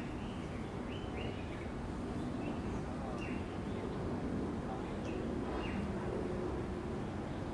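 Birds chirping: short, high chirps every second or so over a steady background din of outdoor zoo ambience.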